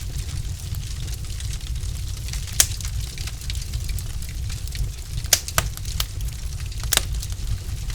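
Wood fire crackling in a fireplace: a steady low rumble with constant small crackles and a few sharp pops, the loudest about two and a half, five and a half and seven seconds in.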